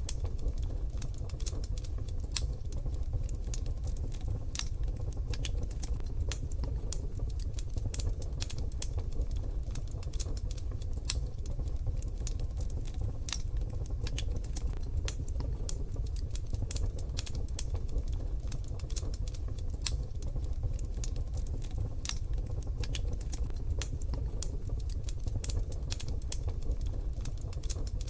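Wood fire crackling in a wood-burning stove: a steady stream of small, irregular crackles and pops over a low rumble.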